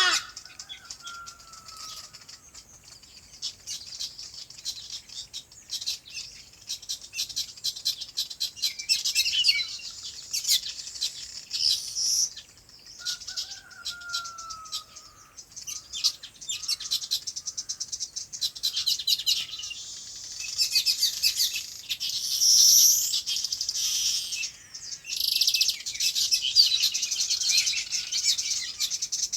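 A flock of small birds chirping and chattering together in dense, rapid bursts, busier in the second half. Twice, about a second in and again near the middle, a lower slurred whistle falls in pitch beneath the chatter.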